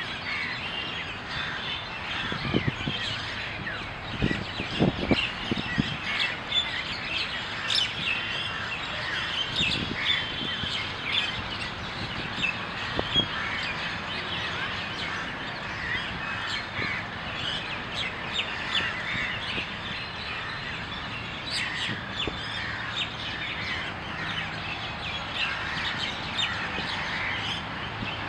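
Many birds chirping and calling at once in a dense, overlapping chorus of short calls, with a few brief low thumps about four to five seconds in.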